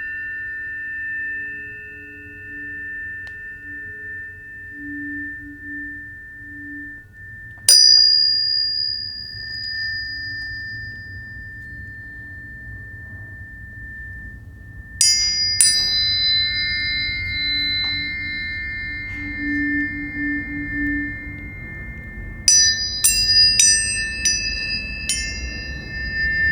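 Planetary tuning forks struck one after another and left ringing as steady, high pure tones that overlap. A fork is struck about a third of the way in, two more about halfway, and a quick run of several strikes comes near the end.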